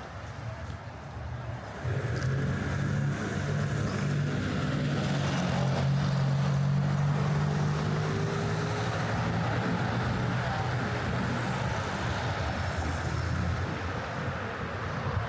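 Motor vehicle engine running close by in street traffic: a steady low hum that comes in about two seconds in and eases off near the end, over general city street noise.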